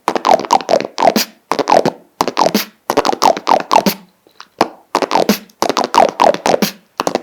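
Beatboxer's lip rolls: buzzing lip sounds in short rhythmic phrases, each falling in pitch, with a brief pause a little past halfway.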